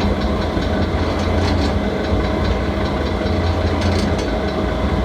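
Biro dual-shaft mixer grinder running with both its mixing arms and its grinding motor on: a steady, loud motor hum with a constant whine and scattered light clicks.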